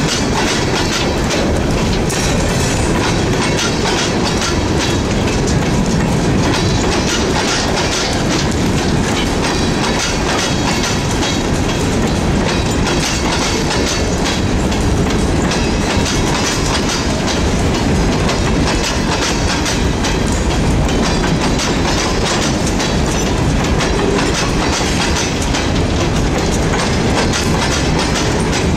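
CSX freight train's open hopper cars rolling past close by: a steady, loud rumble of wheels on rail with a rapid clickety-clack over the rail joints.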